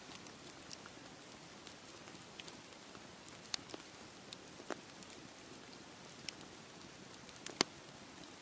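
Campfire crackling, with scattered sharp pops (the loudest about three and a half seconds in and again near the end) over a steady hiss.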